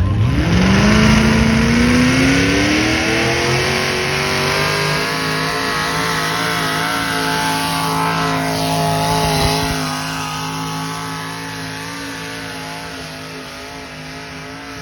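A pulling vehicle's engine revving hard, its pitch climbing over the first few seconds and then held at high revs under load during the pull. It grows gradually fainter over the last several seconds as it moves away.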